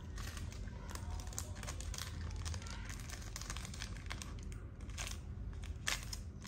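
Rustling and crinkling made up of many small irregular crackles, with a sharper tick about six seconds in, over a steady low hum.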